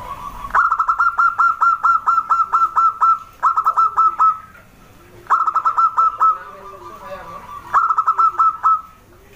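Zebra dove (perkutut) calling in four quick bursts of short, clipped, downward-hooked notes, about four notes a second, the first run the longest.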